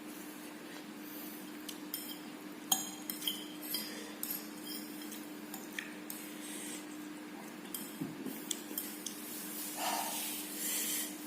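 Cutlery clinking and scraping lightly against a plate in scattered taps while eating noodles, over a faint steady low hum, with a short louder noise about ten seconds in.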